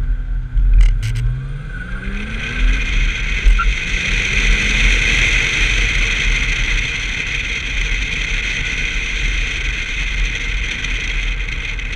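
1990 BMW 325i's 2.5-litre straight-six accelerating from low revs, its pitch climbing for about two seconds, then running on at speed under a steady loud rush of wind and road noise. A few sharp clicks about a second in.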